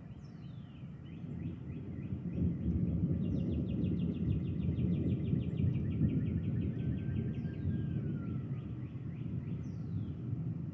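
A low rolling rumble of thunder swells about two seconds in and slowly fades. Over it, birds sing: a few quick downward-sweeping calls and a rapid trill of about seven notes a second.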